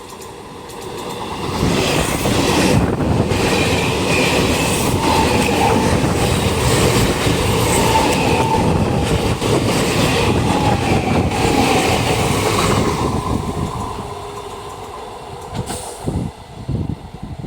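A passenger train passing close by, its wheels rumbling and clattering over the rails with a faint wavering squeal. The sound builds over the first couple of seconds and fades out over the last few.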